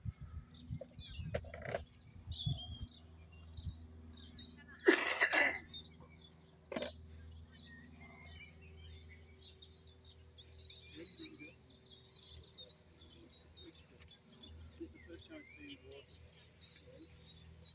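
Small birds chirping and singing throughout, with a short, loud burst of noise about five seconds in.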